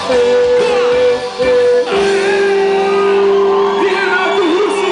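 Live rock band playing in a hall: a long held note that steps down in pitch about two seconds in, with voices shouting and singing over it.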